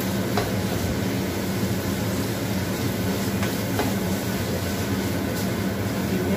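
Anchovies and chili spice paste frying in a wok, stirred and scraped with a silicone spatula, with a few light knocks of the spatula against the pan. A steady low hum runs underneath.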